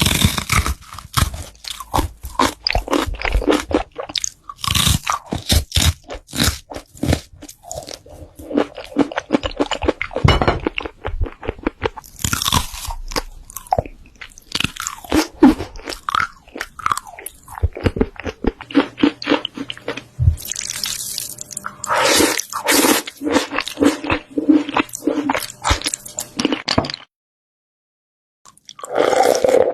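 Mukbang eating sounds: rapid, loud crunching and chewing of crisp food. There are squishier bites in the last part, then a sudden silence of about two seconds and one final crunch.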